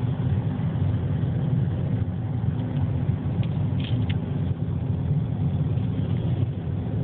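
Steady low rumble of a car driving, road and engine noise heard from inside the cabin, with a few faint ticks about halfway through.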